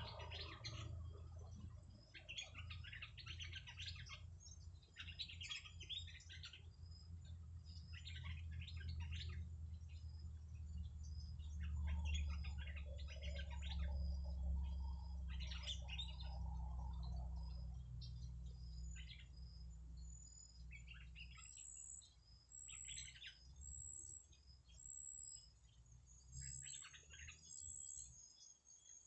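Small birds twittering in repeated short bursts of high chirps, over a steady low rumble.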